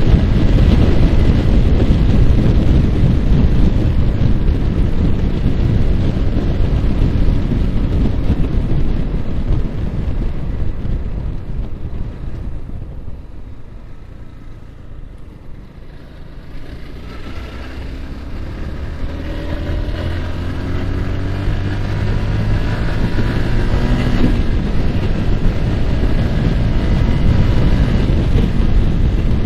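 Yamaha R15's single-cylinder engine and heavy wind noise on the microphone while riding. Both drop away about halfway through as the bike slows, then the engine note rises through the revs and the wind builds again as it accelerates.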